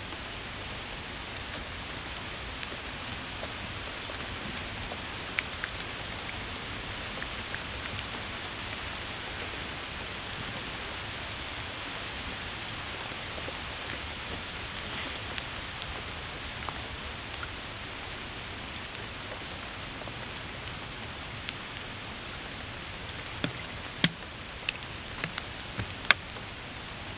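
Steady rain falling, with scattered sharp ticks and a handful of louder ones near the end.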